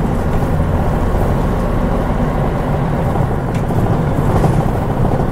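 Mitsubishi Fuso KL-MP37JK Aero Star city bus under way, its turbocharged 6M70 diesel engine and road noise running steadily.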